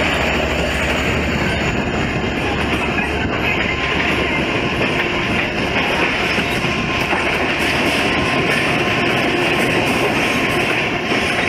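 Mumbai suburban local train running, heard from on board at its open side: a steady loud rumble and rattle of wheels on the rails.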